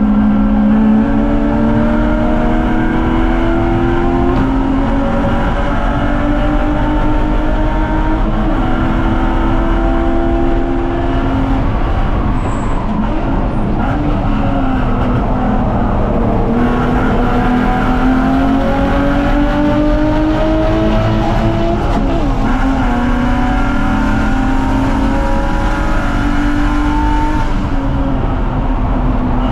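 BMW 330ci's inline-six engine running hard at race pace: its pitch climbs steadily, then drops back, about every five to six seconds, as it pulls through the gears and off for corners.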